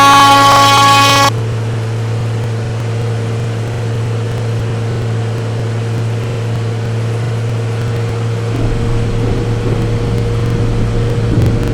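A loud train horn blows a chord of several tones and cuts off abruptly about a second in. After it a steady low engine hum goes on, joined by a deeper rumble near the end.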